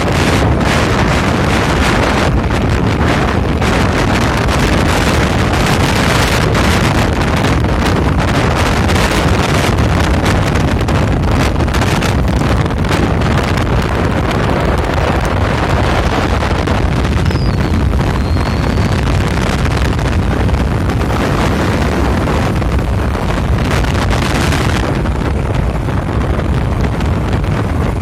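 Heavy wind buffeting on the microphone of a moving bike, over a steady low rumble of the ride, easing a little near the end.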